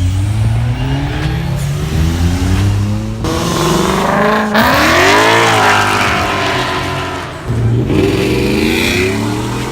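Car engines revving and accelerating hard, the pitch climbing in several sweeps, with the loudest rise about halfway through.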